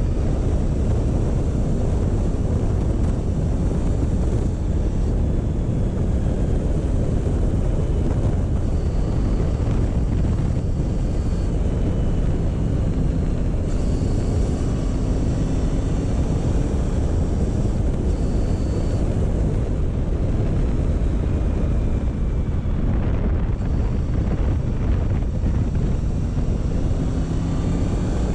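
Motorcycle engine running at a steady, slow pace under heavy wind noise on the microphone, its note rising and falling gently a few times.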